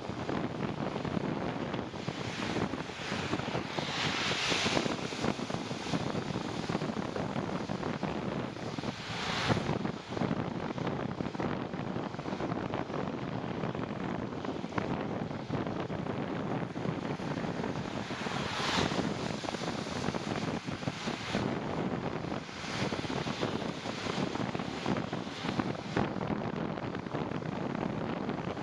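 Wind rushing over the microphone of a cyclist riding along. It is a steady rushing noise that swells louder a few times.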